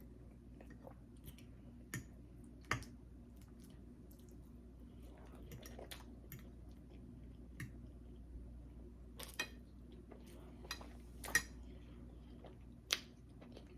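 Close-up mouth sounds of a person chewing soft food, with scattered wet smacks and clicks, a few of them sharper.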